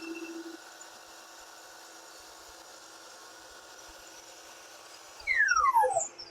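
Miter saw blade coasting to a stop after a test cut, fading into a low steady hum. About five seconds in, a loud whistle-like tone slides steadily down in pitch for about a second.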